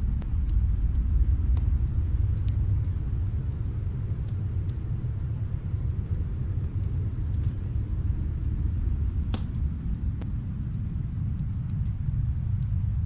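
Wood fire crackling in a fireplace: scattered small snaps and pops, with one sharper pop about nine seconds in, over a steady low rumble.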